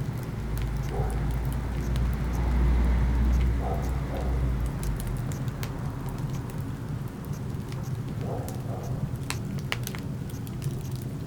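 Burning wood crackling and popping in a fireplace, with sharp pops coming thicker near the end. A deep low rumble swells during the first half.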